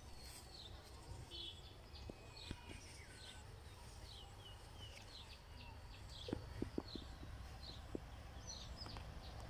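Quiet bird chirps, short high calls repeating throughout, over a low rumble, with a few sharp clicks between about six and eight seconds in.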